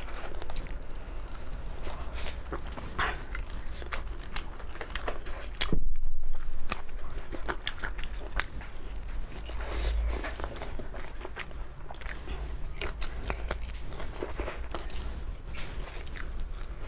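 Close-miked biting and chewing of grilled skewered meat, with wet mouth smacks and clicks throughout. A louder bump comes about six seconds in.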